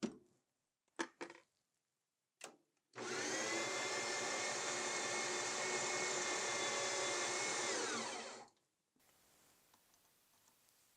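A few light clicks, then an electric power tool's motor running at a steady speed for about five seconds before it spins down, the pitch falling as it stops.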